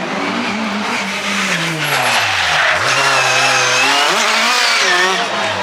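Ford Escort Mk2 rally car's engine revving hard on a rally stage. The engine note drops sharply about two and a half seconds in and then climbs again, over steady tyre noise and skidding.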